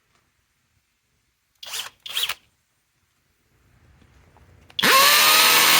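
Two short rasping sounds, then near the end the Flex Turbo FX1271T cordless hammer drill starts suddenly and runs at full speed, its motor whine rising as it spins up.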